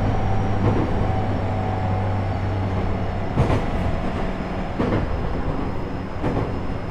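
JR East E127 series electric train (motor car KuMoHa E127-11, Toyo GTO-VVVF drive) running, heard from inside the car. Steady drive and gear tones sit over the rumble of the wheels, and the lowest tone fades out about halfway through. Three clunks about a second and a half apart come from the wheels crossing rail joints.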